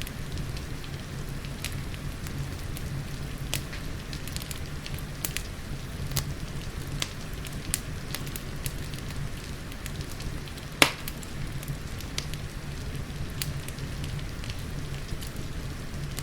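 Wood fire crackling with scattered sharp pops, one much louder pop about eleven seconds in, over steady rain and a low rumble.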